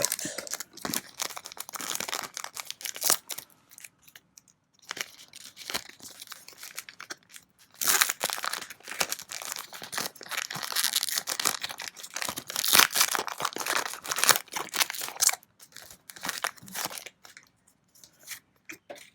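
Foil booster-pack wrappers crinkling and tearing as trading-card packs are opened and handled, in two long spells of crackling with a quieter gap between them.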